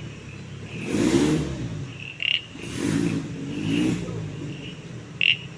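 Off-road 4x4 engine idling, revved up three times in short rising bursts.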